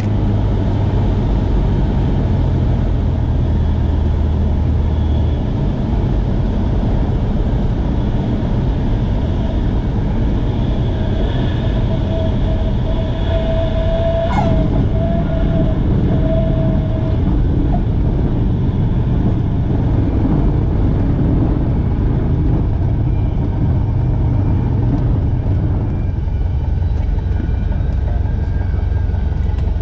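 Cockpit noise of a Cessna 172 in flight: the piston engine and propeller running steadily at a loud, even level. A steady mid-pitched tone sounds for about five seconds around the middle, with a sharp click about halfway through.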